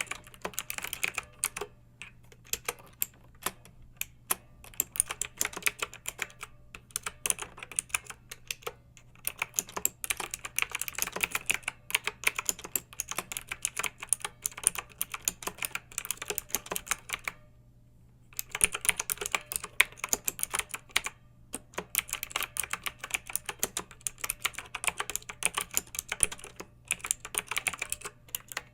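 Clicky mechanical keyboard being typed on in quick, uneven runs of keystrokes, with a pause of about a second roughly two-thirds of the way through.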